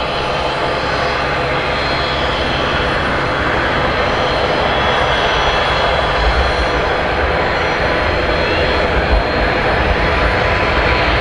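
Jet airliner arriving, its engines a loud steady roar with thin whining tones, slowly growing louder, with a heavy low rumble in the second half.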